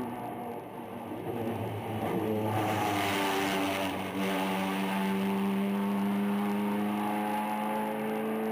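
Race car engine under hard acceleration, growing louder about two seconds in, then holding a strong steady note that climbs slowly in pitch.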